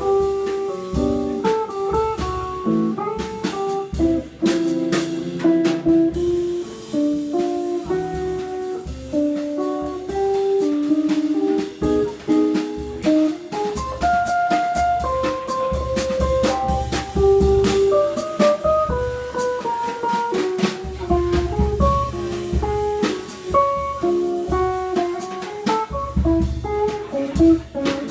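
Live jazz: a guitar playing a line of single held notes over low notes, with a drum kit keeping time on cymbals and drums.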